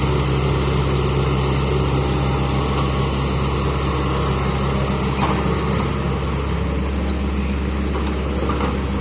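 Excavator's diesel engine running steadily, with a brief thin high-pitched tone a little past halfway.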